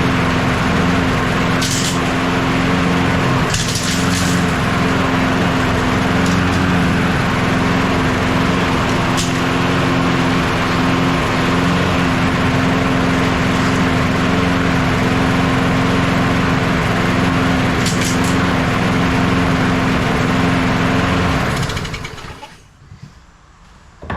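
John Deere JS36 walk-behind mower's small engine running steadily at one speed, not perfectly smooth. A few sharp tinks and cracks come through it as acorns are thrown out from under the deck. About 22 seconds in the engine is shut off and runs down.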